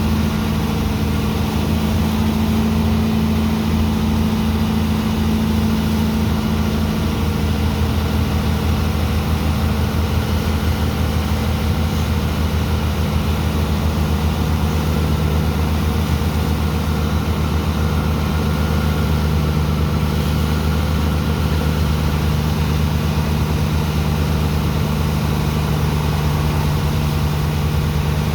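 Large diesel engine of a sand dredger's pump running steadily under load, a continuous low drone. Its strongest tone drops slightly lower about five seconds in.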